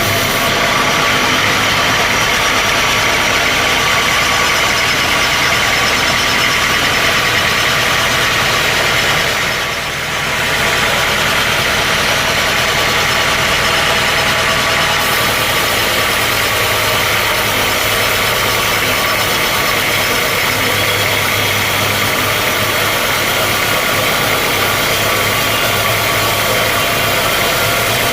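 Sawmill machinery running steadily, a loud dense mechanical drone that dips briefly about ten seconds in.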